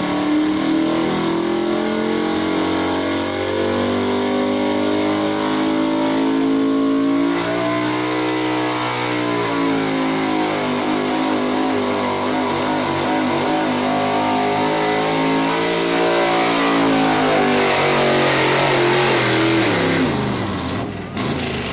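Chevy pro-street pulling truck's engine running hard at high revs under load, its pitch wavering up and down through the pull, then falling away sharply near the end as the run winds down.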